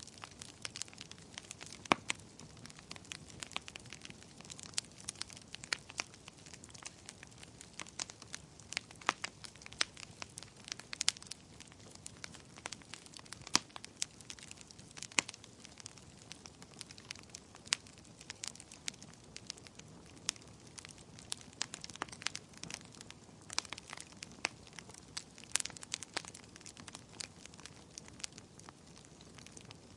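Wood fire crackling, with frequent sharp irregular pops over a low steady hiss.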